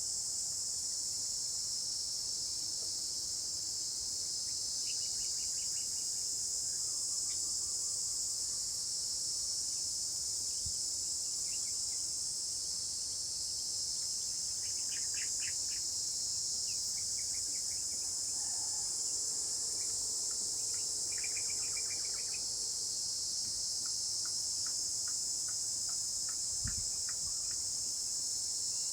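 A steady, high-pitched chorus of insects, likely crickets, drones throughout. Scattered short chirps and rapid trills from birds come through over it every few seconds.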